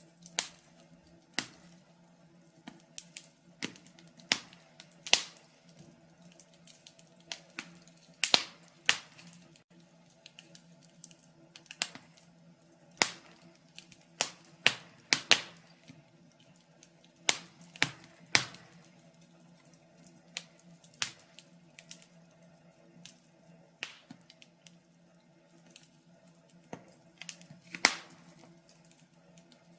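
Wood fire crackling in a fireplace: irregular sharp pops and snaps, several a few seconds apart and some in quick clusters, over a faint steady low hum.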